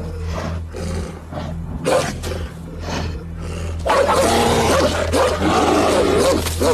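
Wolf and brown bear growling at each other in a confrontation, the growls growing louder and denser from about four seconds in.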